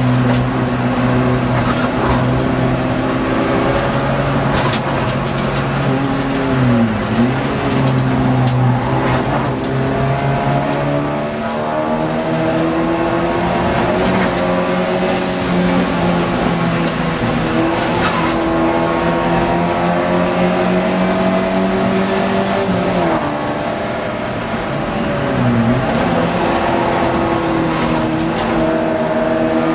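Ford Fiesta XR2 race car's four-cylinder engine running hard at high revs, heard from inside the cabin. Its note dips sharply and climbs back about seven seconds in and twice more near the end, between long steady stretches.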